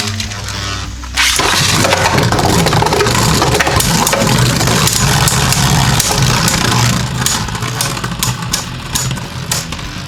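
Two Beyblade spinning tops, Kerbeus K4 and Blizzard-X Gaianon, whirring and clashing in a plastic Rail Rush stadium, with a dense rattle of hits. After about seven seconds the rattle breaks into separate clicks.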